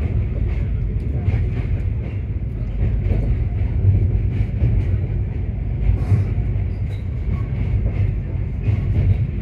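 Passenger train running across a steel truss bridge, heard from inside the coach: a steady low rumble with scattered clanks from the wheels and running gear.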